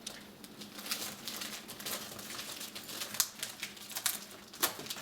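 Six-week-old puppies moving about, making an irregular run of light clicks, taps and crinkling, several a second, with a few sharper knocks about three and four and a half seconds in.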